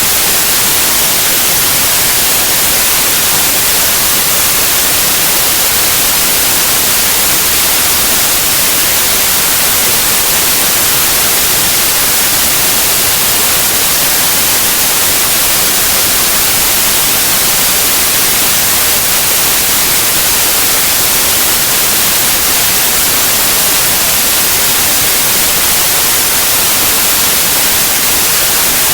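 Steady white noise: an even, loud hiss with no changes, strongest in the highs.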